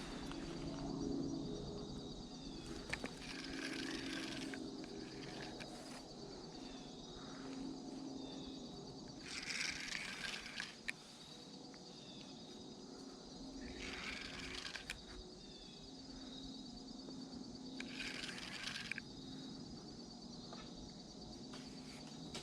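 Quiet outdoor creek-side ambience: a faint, steady high-pitched hum, broken by about four short rushing bursts, each about a second long, a few seconds apart.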